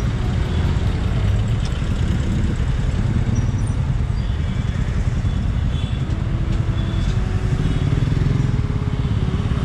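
Motorcycle engine running at low speed in slow city traffic, a steady low rumble, with other vehicles' engines around it.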